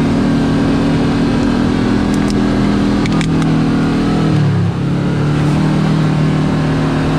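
Kawasaki Teryx KRX4 1000 side-by-side's parallel-twin engine running steadily under way on a trail; its note dips a little past halfway as the throttle eases, with a few light knocks along the way.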